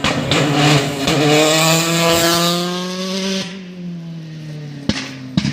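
Rally car at full throttle accelerating away, its engine note rising steadily for about three seconds before fading into the distance. A steady low hum runs underneath, and two sharp knocks come near the end.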